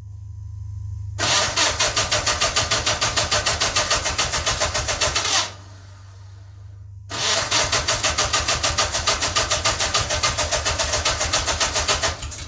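Onan NHC two-cylinder engine on a Gehl 2500 skid steer being cranked by the electric starter in two long bursts of about four and five seconds, each pulsing quickly and cutting off abruptly. This is a cold start at about 10°F, on an engine with no compression on cylinder 1 because its intake valve seat is coming loose.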